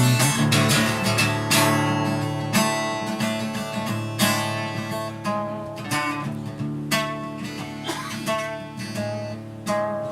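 Acoustic guitar strummed in an instrumental passage, with chords ringing between repeated strokes.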